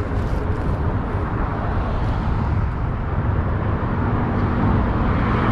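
Steady rumble of highway traffic, with a vehicle passing and growing louder near the end.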